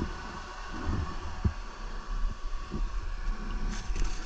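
Dirt bike engine idling, with irregular low thumps of wind buffeting the microphone.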